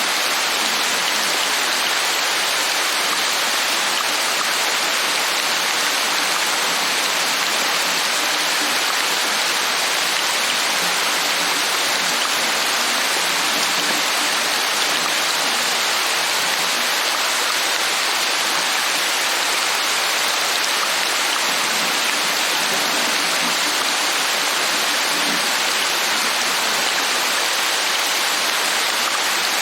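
Steady rain falling: an even, unbroken hiss with no pauses or single loud drops.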